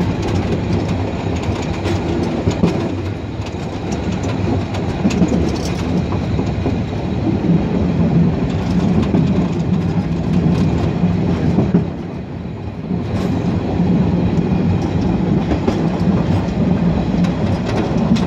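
Narrow-gauge steam train running along the track, heard from an open platform: a steady rumble of the carriages with many sharp clicks of the wheels over the rails.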